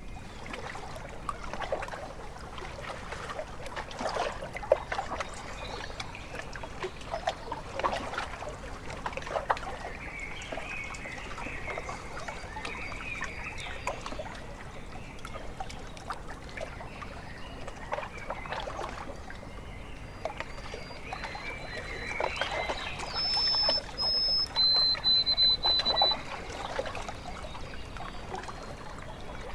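Small waves lapping and splashing at a lakeshore, with birds calling over it. Just past two-thirds of the way through comes a run of high, steady whistled bird notes, the loudest thing heard.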